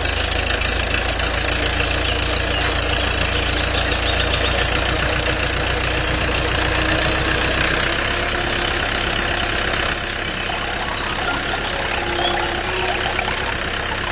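Steady tractor-style engine idling sound with a low rumble that eases about eight seconds in.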